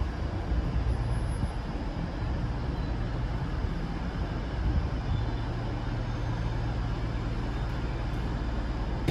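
Railway station ambience: a steady low rumble of trains standing in the station, with a low hum that grows stronger about five seconds in.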